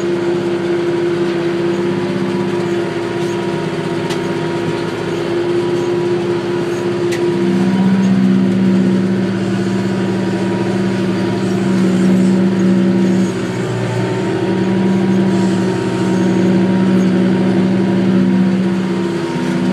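McCormick GX50 utility tractor's diesel engine running steadily under load while driving a rotary cutter (brush hog), heard from inside the tractor cab. Its drone changes note about a third of the way in and again around two-thirds through as the load shifts.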